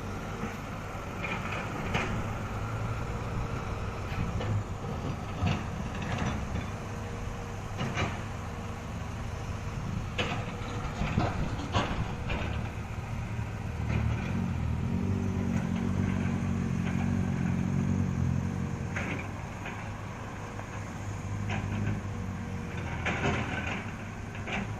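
A truck's diesel engine running steadily, growing louder for a few seconds about halfway through, with scattered clicks and knocks over it.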